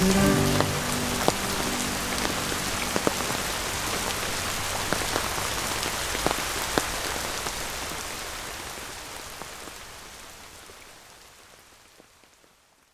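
Steady rain falling, with scattered louder individual drops ticking, fading out gradually over the last several seconds to silence.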